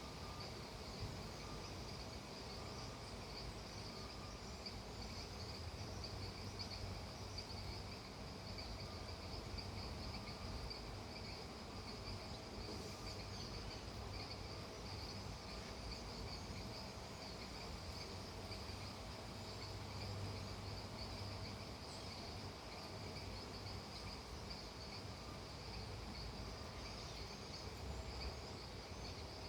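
Steady chorus of insects such as crickets: a continuous high shimmering trill with a fainter, lower trill beneath it, and faint calls that come and go.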